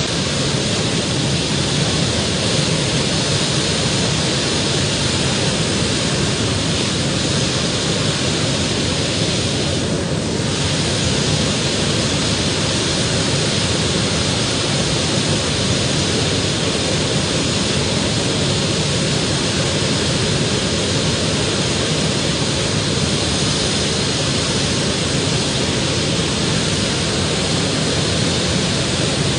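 Loud, steady engine noise with no clear pitch from a tractor pulling event, dipping briefly about ten seconds in.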